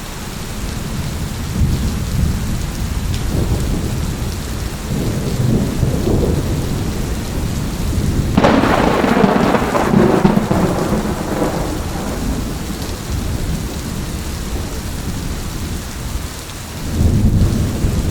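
Thunderstorm: steady rain with rolling thunder, a sharp, loud thunderclap about eight seconds in that rumbles away over several seconds, and a fresh rumble of thunder near the end.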